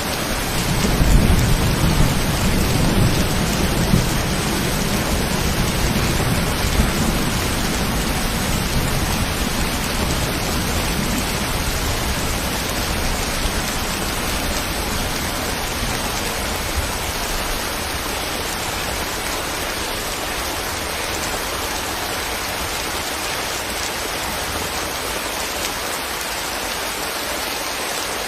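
Steady rain falling, an even hiss throughout. Over the first half a low rumble of thunder rolls on and slowly fades away.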